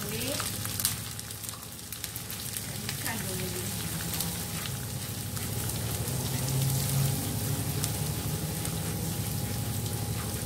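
Ground chilli paste frying in hot oil in a non-stick pan, a steady sizzle with fine crackling, while a spatula stirs it round the pan.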